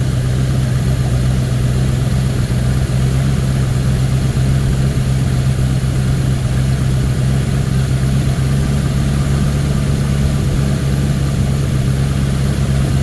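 1979 Ford Thunderbird's V8 idling steadily, running on its own on a newly replaced fuel pump and fuel lines; it sounds healthy.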